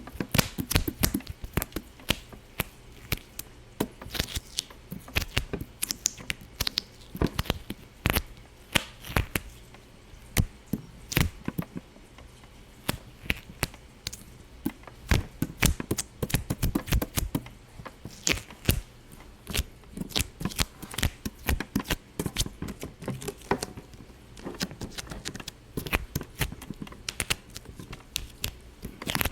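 Irregular sharp pops and clicks, several a second, some much louder than others.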